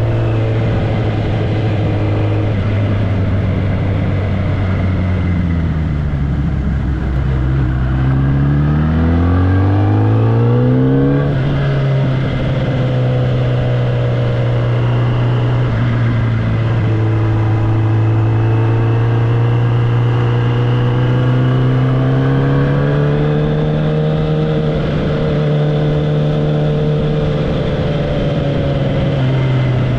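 Kawasaki ZX-10R inline-four engine and exhaust under way: the engine note falls in steps about five to eight seconds in, climbs again, then holds a steady cruising note that rises a little near the end.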